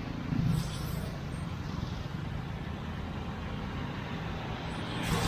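Street traffic noise: a motor vehicle engine running close by over a steady haze of road noise, a little louder about half a second in.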